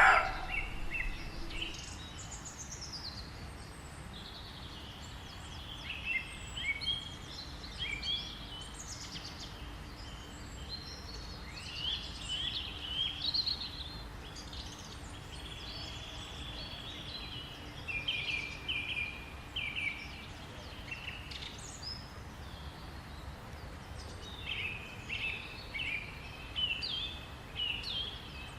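Wild birds singing, many short chirping calls on and off, over faint steady background noise. Right at the start, the last of a loud call that fits a roe deer's alarm bark.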